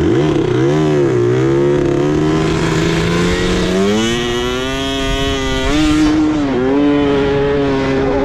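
Yamaha Banshee quad bike's two-stroke engine revving in short blips, then accelerating away with its pitch climbing. The pitch dips briefly about six and a half seconds in, then rises again.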